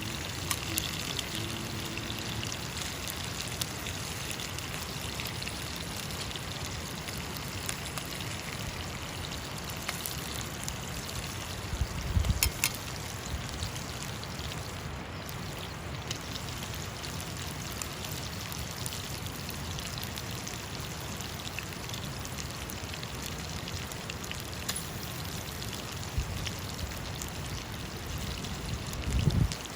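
Steady rushing of a river's flowing water, with scattered faint clicks and two brief low rumbles, one about twelve seconds in and one near the end.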